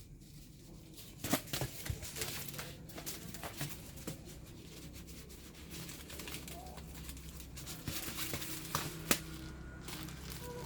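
Irregular crinkling and rustling, as of paper or plastic being handled, with scattered small clicks and a few sharp taps: about a second in, near two seconds, and near the end.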